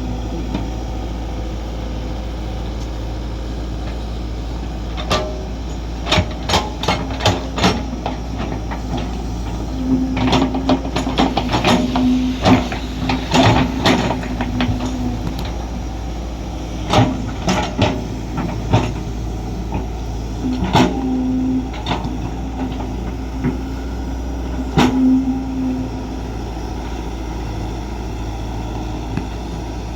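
Kobelco SK200 excavator at work: its diesel engine runs steadily under irregular knocks and clanks from the digging, with a low hum that swells and fades several times.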